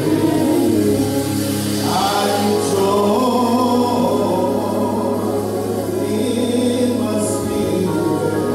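Gospel music: a choir singing over a steady low bass note.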